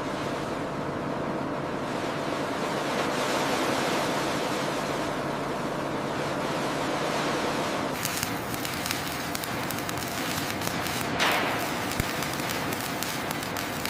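Steady rushing noise with a low hum under it for the first eight seconds. About eight seconds in it turns crackly, and a swelling whoosh follows a few seconds later.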